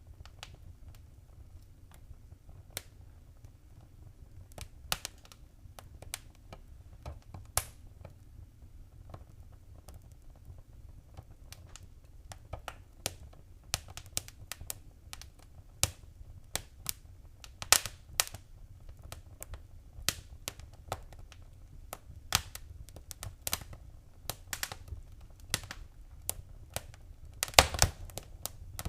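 Wood fire crackling in a fireplace: irregular sharp pops and snaps, sparse at first and coming thicker after about twelve seconds, with a loud cluster of pops near the end, over a steady low rumble.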